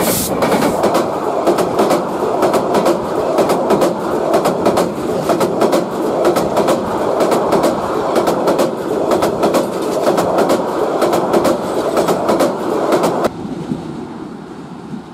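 Express passenger train's coaches passing at speed close by, the steel wheels clacking in a fast run over rail joints above a loud rumble. About 13 seconds in the sound drops abruptly to a quieter, more distant train rumble.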